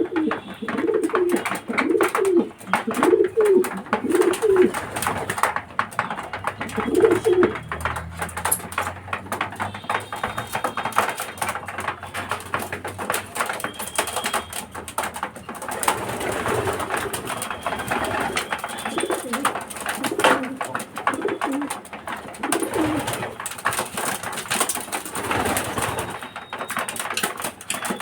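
Domestic racing pigeons cooing, with a quick run of coos in the first few seconds and more in the second half. Small clicks and rustling go on throughout.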